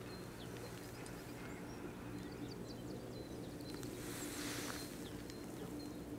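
Small birds chirping in quick, high, short notes over a steady low hum, with a brief rush of noise about four seconds in.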